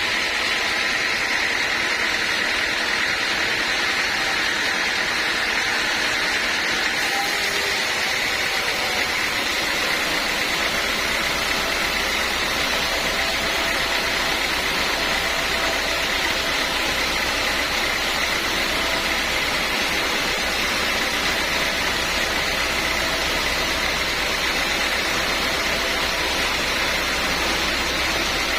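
Sawmill machinery running steadily: a continuous mechanical noise with a steady high-pitched hum and no separate knocks. A low hum joins in partway through.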